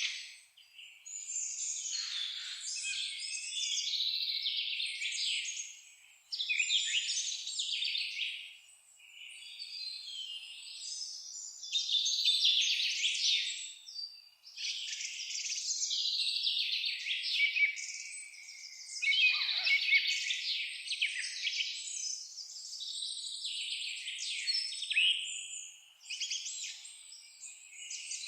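A chorus of small songbirds chirping and singing over one another in dense, high-pitched bouts, with a few short lulls.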